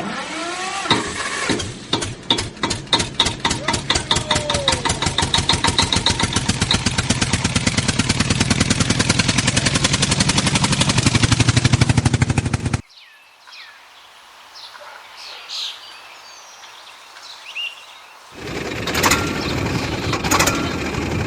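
A mini tractor's motor runs with a rapid pulsing beat that speeds up steadily for about twelve seconds, then cuts off suddenly. A quieter stretch with a few faint chirps follows, and loud running noise starts again near the end.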